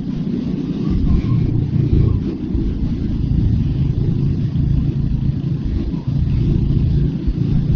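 Royal Enfield Hunter 350's single-cylinder engine running on the move. The revs swell briefly about a second in, then hold steady.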